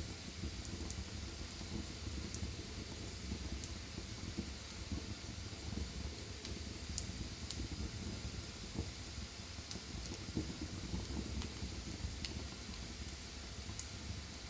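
Wood fire burning in a fireplace: a steady hiss and low rumble of flames, with sharp crackles and pops scattered every second or two.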